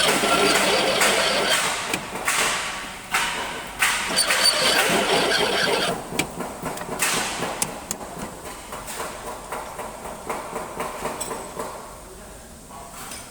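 Machine tool cutting metal: loud busy cutting noise with many clicks for about six seconds, then quieter running with rapid small ticks.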